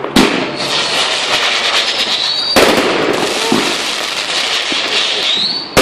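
Fireworks going off: a sharp bang just after the start and another about halfway, over dense continuous crackling, with two short rising whistles.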